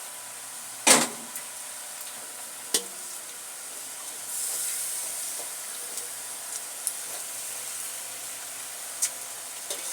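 Curry frying and sizzling in a pot, with a few sharp knocks against the pot, the loudest about a second in. The hiss swells stronger about four seconds in.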